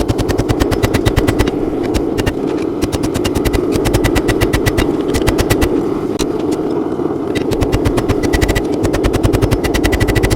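Rapid, evenly spaced hammer blows on steel, several a second, in runs with short pauses, as the drawknife ends are forged out into handles. A steady rushing noise runs underneath.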